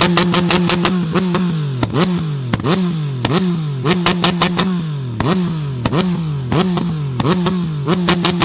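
Tuned car engine held against a two-step rev limiter for about the first second, steady pitch with rapid even exhaust pops. It is then blipped about ten times at a steady rhythm, revs falling and snapping back up each time, with an exhaust bang at every blip.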